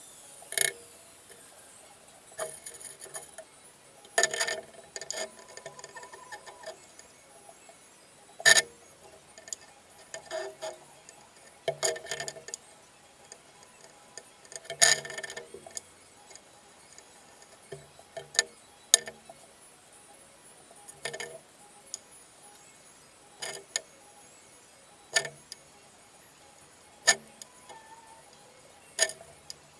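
Irregular sharp metallic clinks and knocks, a dozen or so spread unevenly with short ringing after some, from steel axle parts being handled and tapped during setup for welding.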